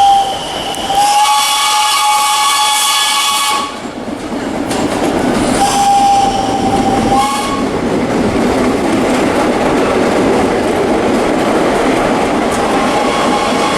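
Vintage subway train sounding its horn: a short toot, a long blast of about three seconds, then another blast of nearly two seconds. After that the train runs on with steady wheel-on-rail clatter.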